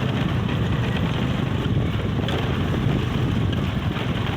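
Motorcycle engine running steadily under way, with wind noise rushing over the microphone.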